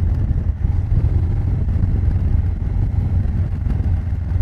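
Honda Africa Twin CRF1000L parallel-twin engine running steadily, heard close to its exhaust pipe as a low, even exhaust note with no clear revving.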